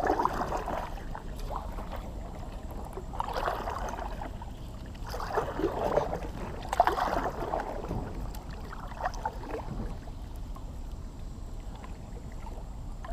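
Kayak paddle strokes in shallow marsh water: about five swishing dips a couple of seconds apart, over a low steady background.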